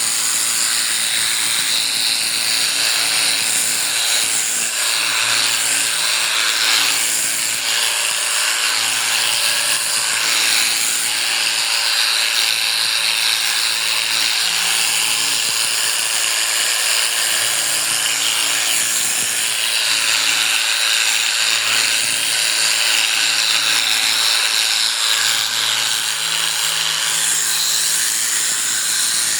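Electric sheep shearing clippers running steadily as they cut through the fleece.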